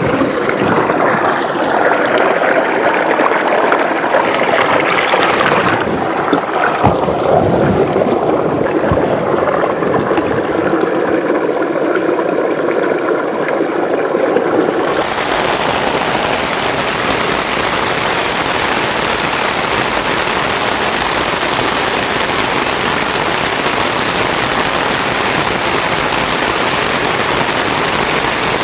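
Rushing water and rain with a few scattered knocks; about halfway through it changes suddenly to a steady, brighter hiss of heavy rain.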